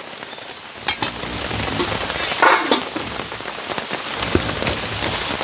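Steady rain falling, with scattered sharp taps and knocks.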